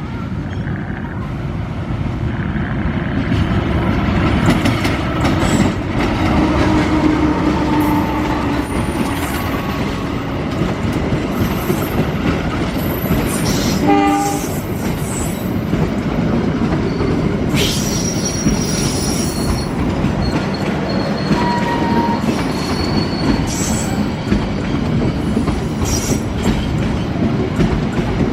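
A train passing at close range, its wheels running loudly and steadily over the rails, with short high-pitched wheel squeals on and off.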